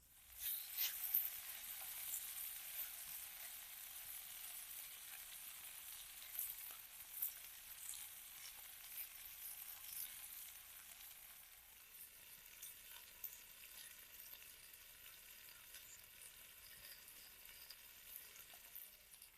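Food frying in oil in a cast iron pan, sizzling with scattered sharp crackles and pops. The sizzle starts suddenly, is strongest in the first few seconds and eases off in the second half.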